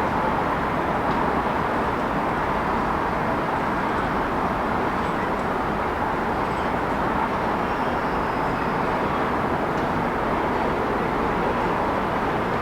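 City street ambience: a steady wash of traffic noise, holding an even level throughout.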